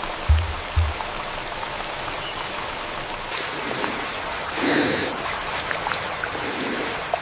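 Steady rain falling on rainforest foliage, with scattered individual drops ticking. A few deep low thumps come in the first second, and a brief louder noisy sound about halfway through.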